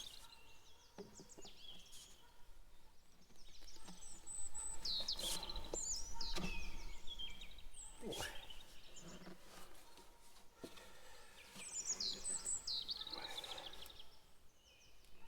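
Songbirds singing outdoors, in repeated high phrases that fall in pitch, over a faint background of open air. A few sharp knocks from handling the work break in, the loudest about eight seconds in.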